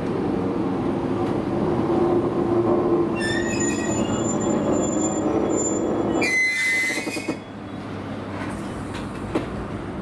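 Electric commuter train running on the rails at a station, with a steady rumble; high-pitched wheel squeal sets in about three seconds in and turns sharper around six seconds, then the running noise falls away abruptly just after seven seconds.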